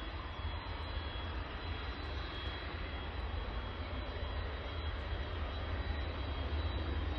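DHL cargo jet landing, its engines making a steady rumbling noise with a faint, steady high whine; the noise grows slightly louder toward the end.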